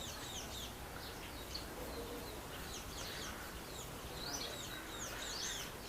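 Small birds chirping, many short quick calls scattered throughout, over a faint steady background hiss.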